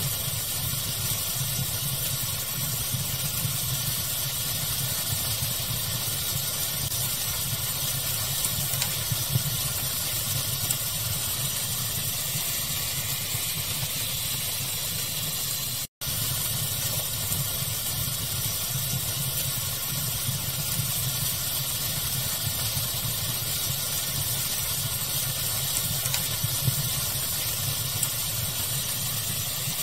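Steady pink-noise-style hiss with a low rumble under it and light fire crackling, a few small crackles standing out. The sound cuts out completely for an instant about halfway through, like a loop seam.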